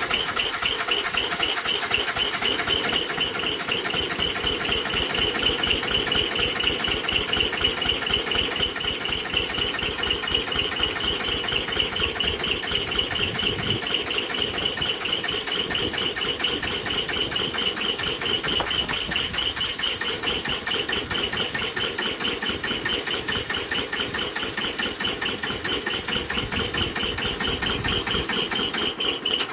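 Two-cylinder diesel engine of a Bolens G174 compact tractor, turning over with a steady, fast knocking rhythm. The engine is worn, with low, uneven compression across its two cylinders, and is hard to start.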